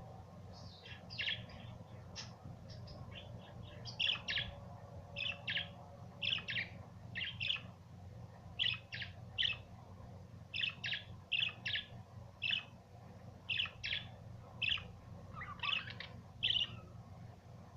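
Budgerigars chirping: a string of short, sharp chirps, about one or two a second, over a low steady hum.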